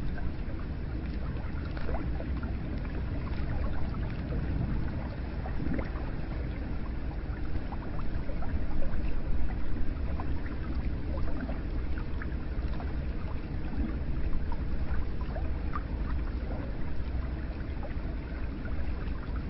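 Hot-spring water flowing steadily into a bath, with small drips and splashes scattered through it.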